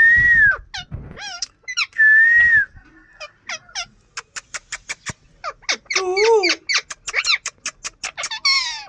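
Indian ringneck parrot calling: two long whistled notes, one at the start and one about two seconds in, then a rapid run of short sharp chirps and clicks, and harsh rasping squawks from about six seconds on.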